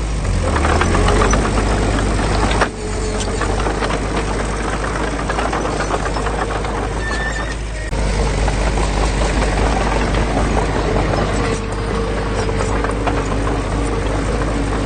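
Diesel engine of heavy construction machinery running steadily, with a busy clatter over it; the sound shifts abruptly twice, about three and eight seconds in.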